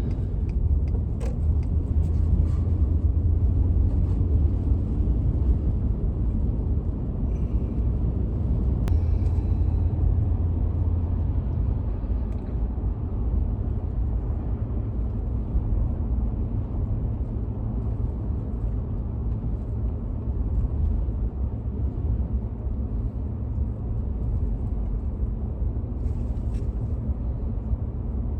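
A vehicle being driven, with a steady low rumble of engine and road noise.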